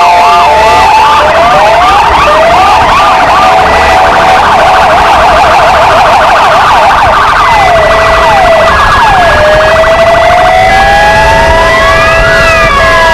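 Four police sirens sounding together: two Argentine Federal Police motorcycle sirens and two Kingvox ERP sirens. They run over one another in different tones: quick repeated rising whoops, a fast warble in the middle, steady held tones, and a slow wail that rises and then falls near the end.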